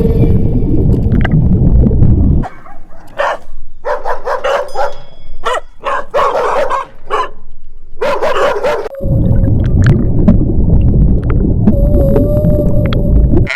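Dog barking and yipping in a run of short, separate barks over several seconds in the middle. Before and after the barking there is a loud low rumbling noise that starts and stops abruptly.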